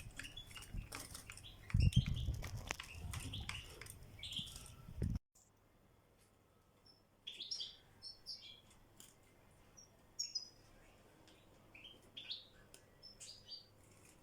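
European goldfinches chirping with short, high calls. For about the first five seconds loud knocking and rustling runs under the calls, then cuts off suddenly, and scattered calls follow.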